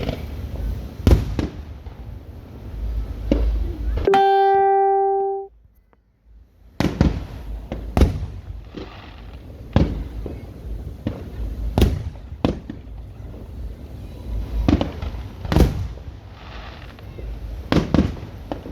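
Aerial fireworks going off in a string of sharp bangs and booms, some with a trailing rumble. About four seconds in, a steady pitched tone sounds for about a second and a half, followed by a brief dropout before the bangs resume.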